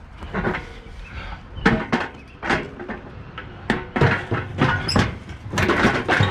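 Irregular series of sharp knocks and clanks from curbside scrap metal being handled and moved.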